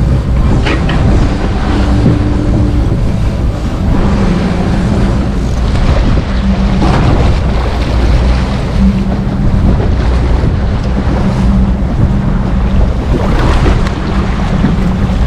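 Wind rushing over the microphone on a moving boat, over the steady low drone of the boat's engine and water washing past.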